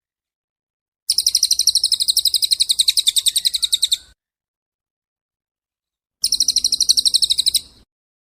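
A songbird's rapid, high trill, about ten notes a second, given twice: first for about three seconds, then after a two-second pause a shorter trill of about a second and a half.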